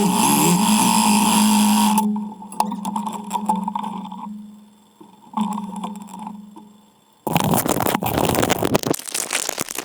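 A Yamaha Silverado's 1700cc V-twin engine runs with a steady drone for about two seconds, then cuts off abruptly and comes back quieter, fading in and out in short spells. About two-thirds of the way through, a loud rough noise with no tone takes over.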